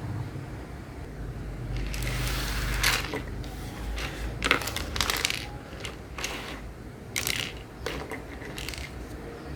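Small objects being handled by hand: a stretch of rustling, then a string of separate sharp clicks and taps.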